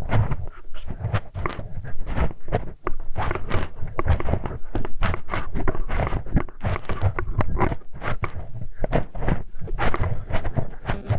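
Close-miked ASMR ear-cleaning sounds: a dense, irregular run of scratching, rubbing and clicking right at the microphone's ear, with a low rumble underneath.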